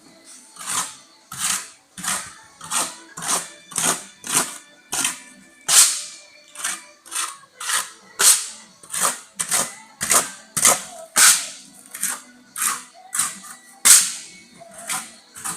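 Hand tool working a surface in a steady series of short, sharp strokes, about one and a half a second, each dying away quickly.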